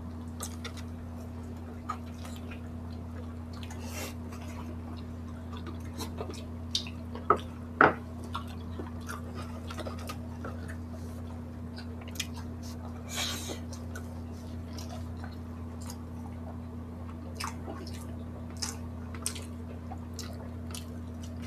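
Close-miked chewing of grilled pork belly and rice, with scattered short wet clicks and lip smacks over a steady low hum.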